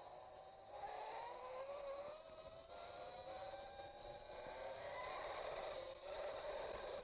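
A 15 kW electric motor on a bicycle's chain drive whining as it spins up, its pitch rising steadily for about five seconds, then dropping back near the end. The motor now starts and runs normally on its controller's new outboard-motor firmware.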